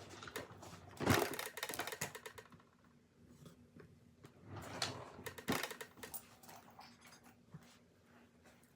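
Small objects being handled and packed into a purse: a few sharp clicks and knocks, the loudest about a second in and two more around five seconds, with light rustling between.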